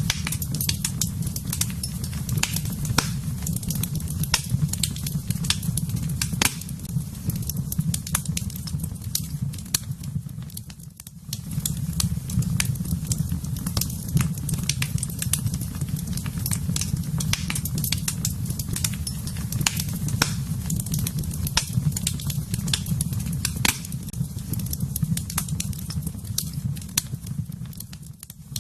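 Wood fire burning in a fireplace: a dense run of sharp crackles and pops over a steady low rumble of the flames. The sound dips briefly about eleven seconds in and again near the end.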